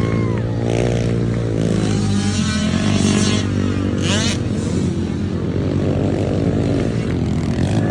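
Several small youth dirt bike engines running and revving on a motocross track, their pitch rising and falling with the throttle. About four seconds in, one engine climbs sharply in pitch.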